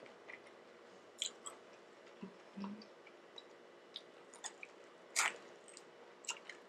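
Close-up eating sounds: bites into crispy fried chicken coated in sweet and sour sauce, then chewing, with sharp crunches scattered through and the loudest crunch about five seconds in.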